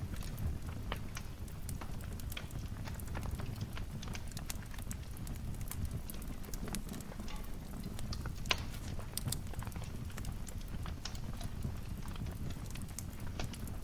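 Fire crackling in a fireplace: irregular sharp pops and snaps over a low rumble of the flames, with one louder pop about eight and a half seconds in.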